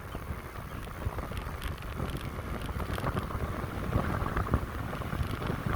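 Wind rushing over a bike-mounted microphone and the rumble of a bicycle's tyres on a fast, steep downhill, with scattered small knocks from the road.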